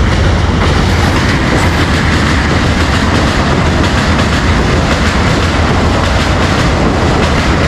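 Passenger train passing close by over a steel truss railway bridge: a loud, steady rumble of coaches and wheels on the rails, with faint repeated clicks.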